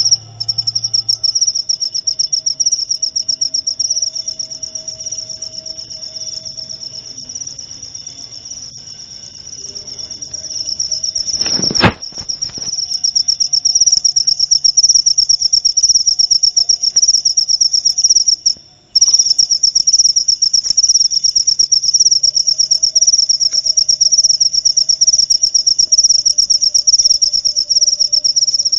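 Jaliteng field cricket calling: a loud, continuous, high-pitched trill of rapid pulses. A single sharp knock comes about twelve seconds in, and the trill breaks off briefly around nineteen seconds before resuming.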